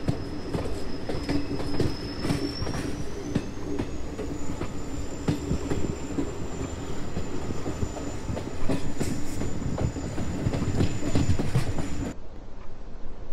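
Train running on rails: a steady rumble with many short clicks and rattles, and a thin high squeal tone that rises in pitch a few seconds in and then holds. About twelve seconds in, the sound cuts abruptly to a duller one with the high end gone.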